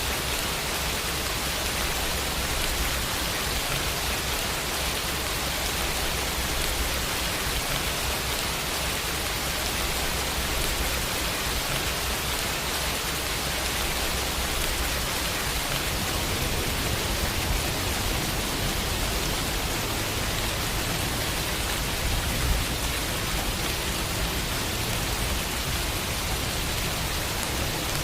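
Steady rain falling and pattering on a window, a dense even hiss.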